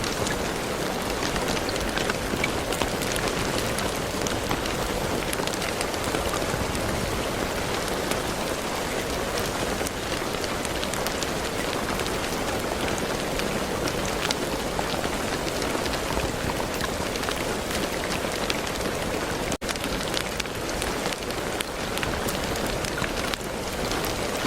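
Steady rain falling on a surface, a dense hiss with many individual drops ticking through it. There is a split-second break in the sound about twenty seconds in.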